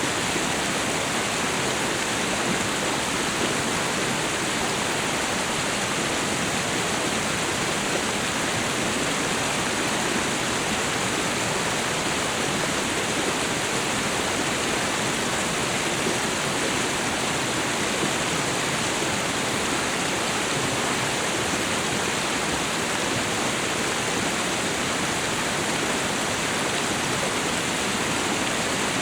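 Waterfall and river water rushing steadily, a constant even roar with no change.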